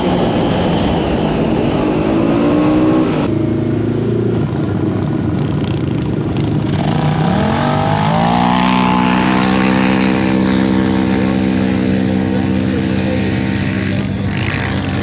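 Side-by-side UTV engine running hard on the dunes, rising in pitch as it accelerates. The sound changes abruptly a little over three seconds in, climbs steeply again around seven to eight seconds in, then holds a steady high pitch.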